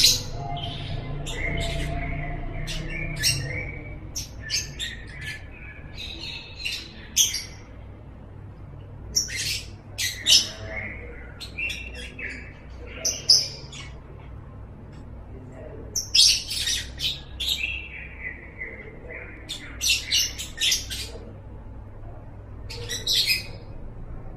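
Lovebird singing: clusters of shrill, rapid chirps, trills and squawks broken by short pauses, over a steady low background hum.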